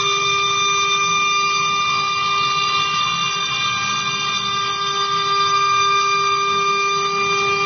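CNC router spindle running with a steady whine of several held pitches, over a steady hiss of machining noise.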